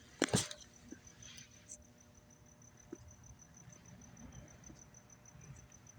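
A single sharp thud about a third of a second in, then a cricket chirping steadily in rapid, evenly spaced high pulses, with a few faint taps.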